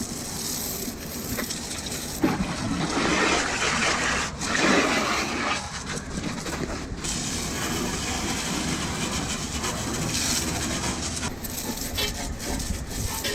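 Garden hose spraying water onto a truck's bodywork to wash off mud, in uneven surges, loudest a few seconds in.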